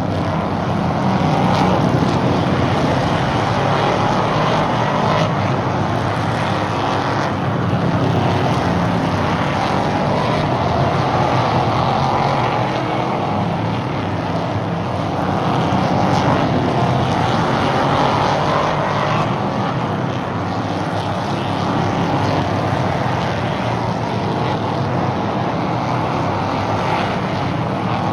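Several stock car engines running at racing speed around a short oval track, a steady drone that swells and fades a few times as cars pass.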